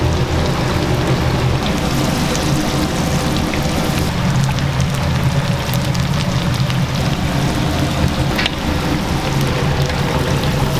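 Oil sizzling and crackling in a deep fryer, a dense steady crackle over a low hum.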